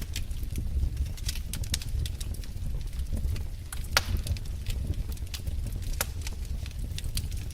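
Wood fire crackling: irregular sharp pops and snaps over a low steady rumble, the loudest pop about four seconds in.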